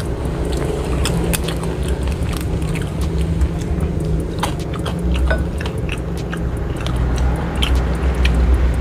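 Close-up chewing of a man eating fried catfish and rice with his hands, with many short clicks and crackles of mouth and food sounds over a steady low hum.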